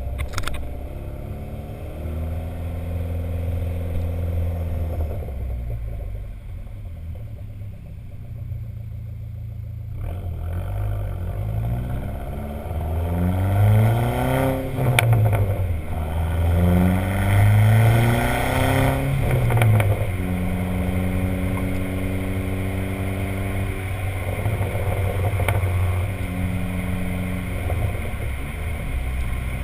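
Dodge SRT-4's turbocharged 2.4-litre four-cylinder engine running through its stock exhaust on a Stage 1 tune, held at steady revs, then revved up sharply twice about halfway through. Each rev falls back with sharp exhaust crackles and pops.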